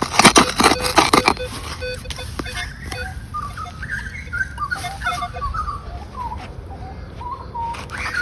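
Digging into rocky soil, with a quick run of scrapes and knocks in the first second or so. Then comes a high, wavering tone that steps up and down in pitch.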